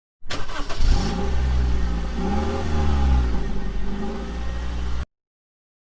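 Motorcycle engine running, its pitch rising and falling twice as it is revved, cut off suddenly about five seconds in.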